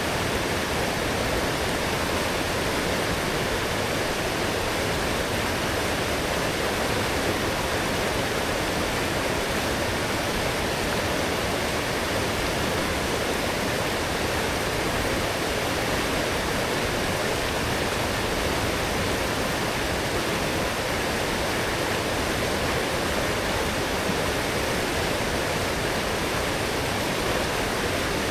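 A strong forest stream swollen after heavy rain, rushing steadily over its bed as an even, unbroken roar of water.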